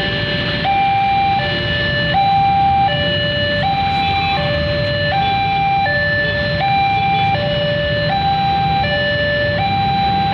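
Two-tone electronic warning alarm alternating high-low about every three-quarters of a second, steady and repeating, over the low rumble of the inspection train running.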